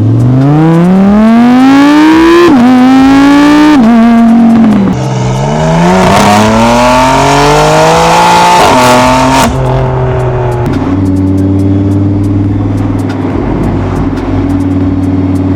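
Audi R8's 5.2-litre V10 accelerating hard through the gears, the revs climbing and dropping sharply at upshifts about 2.5 and 5 seconds in, pulling up again, then settling to a steady cruise.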